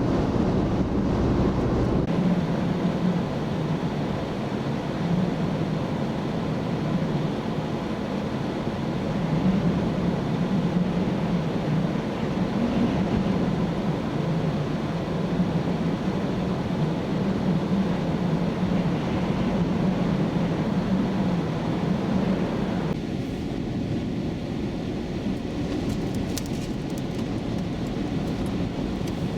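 Steady rumbling road and engine noise inside a moving vehicle, with the sound abruptly turning thinner about three quarters of the way through.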